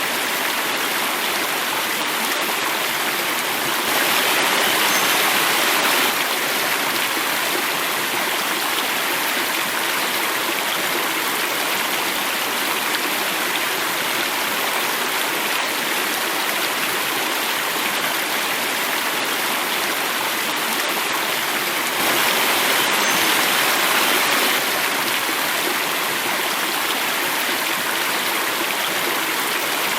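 Water flowing and falling in a cascade, a steady rushing with no pauses. It grows slightly louder and brighter twice: about four seconds in for two seconds, and again just past the twenty-second mark for a little over two seconds.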